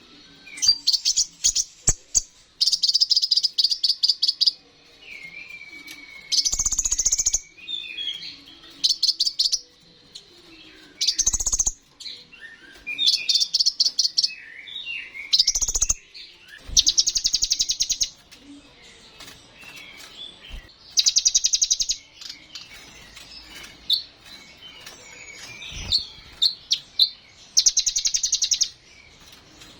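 Kolibri ninja (sunbird) singing: high, rapid buzzy trills of about a second each, repeated every couple of seconds, with short twittering chirps in between.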